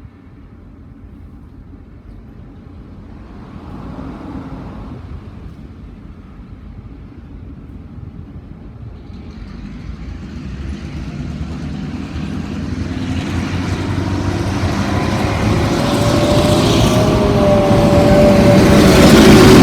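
Diesel locomotives approaching, their engine rumble growing steadily louder, with a wavering engine tone coming through in the second half.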